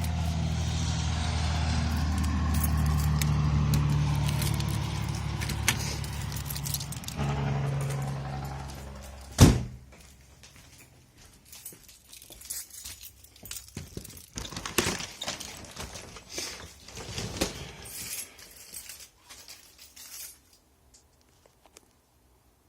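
A vehicle engine running steadily, cut off by a single loud knock about nine seconds in. Scattered light clicks and jingling follow, like keys or loose metal being handled, then it falls quiet near the end.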